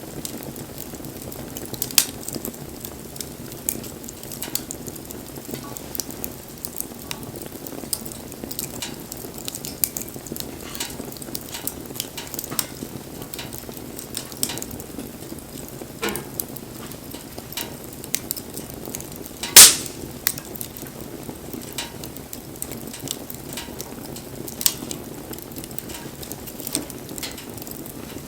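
Wood fire crackling, with frequent small sharp pops and one much louder snap about two-thirds of the way through.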